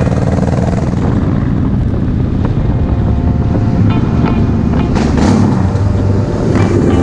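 Motorcycle engine running steadily at riding speed, with wind buffeting the microphone.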